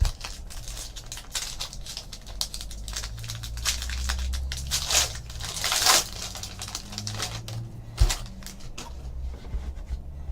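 Bowman baseball card packs and cards being handled: foil wrappers crinkling and cards rustling in a run of quick crackles, thickest about five to six seconds in, with a single thump about eight seconds in.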